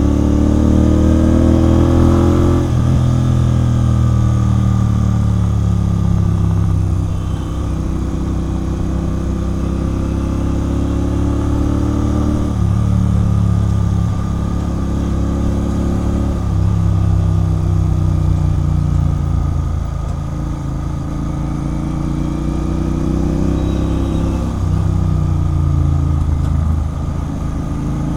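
Royal Enfield Continental GT 650's 648 cc parallel-twin through a Red Rooster aftermarket exhaust, under way. The note climbs as the throttle is opened and drops sharply about two and a half seconds in. After that it rises and falls a few times, with sudden drops.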